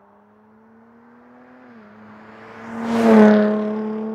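Jaguar F-Type sports car engine accelerating and passing close by: the engine note climbs slowly, dips once partway through, then swells with a rush of tyre and wind noise to a loud peak about three seconds in and eases off as the car goes past.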